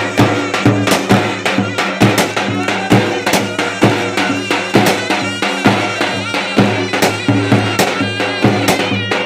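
Turkish folk dance tune (oyun havası): a reedy, ornamented wind melody over a held low tone, with a steady driving drum beat.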